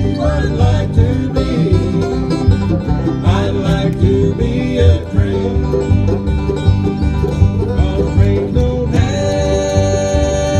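Bluegrass band playing live, with banjo and guitar picking over a steady bass beat. A long held chord comes in near the end.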